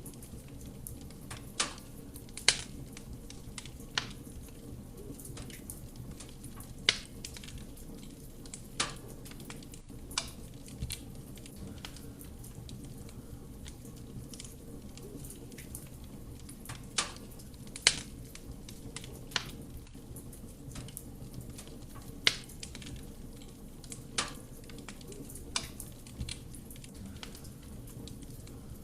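Wood fire burning in a fireplace: a steady low rumble of flame with sharp, irregular pops and crackles from the burning logs, one every second or two.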